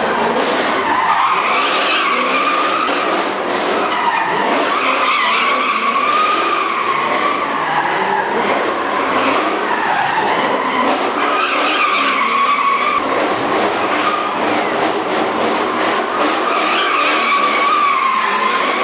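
Car tyres squealing continuously in long skids, the way they do when a car is doing donuts or a burnout. The squeal wavers up and down in pitch and does not let up.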